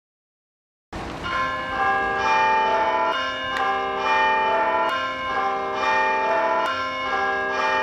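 Church bells ringing, with notes struck one after another and their long ringing overlapping, starting abruptly about a second in.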